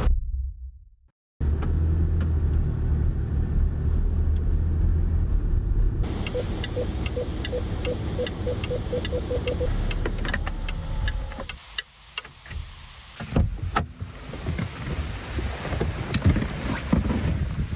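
Car running with a steady low rumble, followed by a run of quick, even ticks at about four a second and a few sharp knocks, with wind noise near the end.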